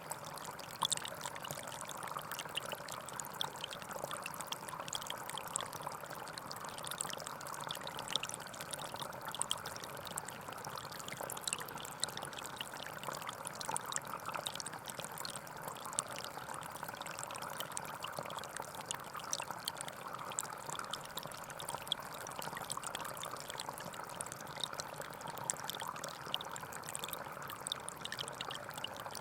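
Small forest stream flowing over stones, a steady burble and trickle of water.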